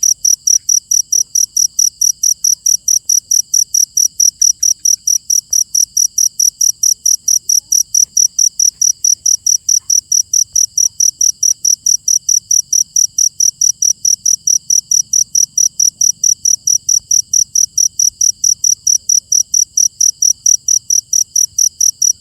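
Cricket chirping steadily, a loud high-pitched chirp repeated evenly about three to four times a second.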